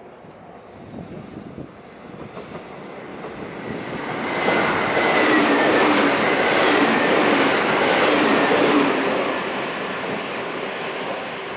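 A train running on rails: a steady rail and wheel rumble that swells to its loudest about four to nine seconds in, with a thin high whine slowly falling in pitch, then fades away.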